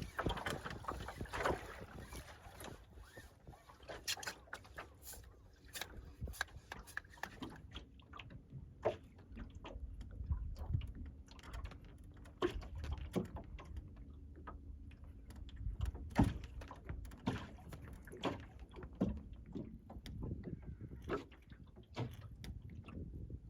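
A small wooden CLC Skerry sailing dinghy underway in light air: irregular light knocks and creaks from the boat over a low wash of water and wind.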